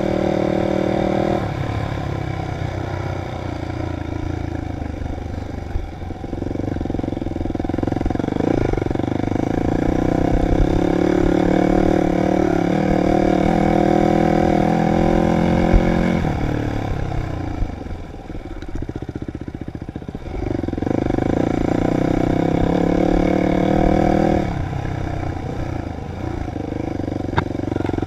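Dirt bike engine revving up and easing off as the throttle is worked. The engine note drops off about six seconds in and again for a few seconds past the middle, then picks back up.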